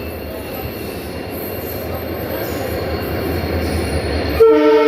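Through train approaching, its running rumble and rattle growing steadily louder, then the locomotive's horn sounds one short loud blast near the end.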